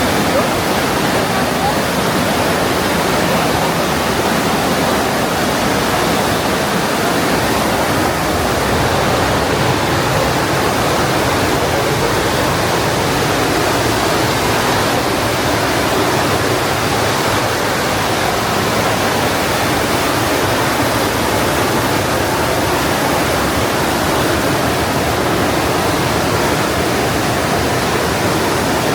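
Partnach River's glacial meltwater rushing through a narrow limestone gorge: a loud, steady rush of whitewater.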